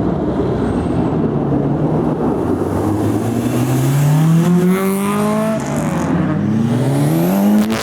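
Supercar engine accelerating hard under load. Its pitch climbs steadily from about three seconds in, drops at an upshift, then climbs again in the next gear.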